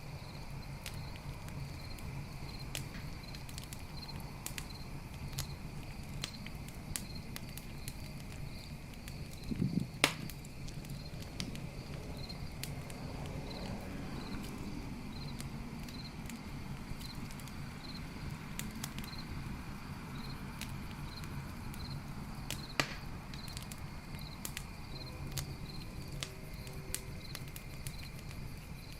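Wood fire crackling, with frequent small snaps and two louder pops, about a third of the way in and again near the end, over a low steady burn. Crickets chirp steadily behind it.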